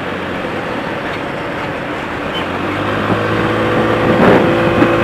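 Steady road and traffic noise with a motor vehicle's engine note; a steady hum comes up about three seconds in and grows louder toward the end.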